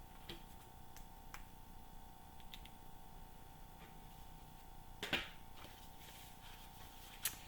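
Quiet room tone with a faint steady hum, a few faint clicks, and one brief rustle about five seconds in.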